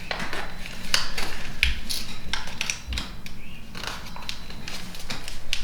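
Origami paper being folded and creased by hand: irregular crisp crackles and rustles, with sharp clicks as the folds are pressed down.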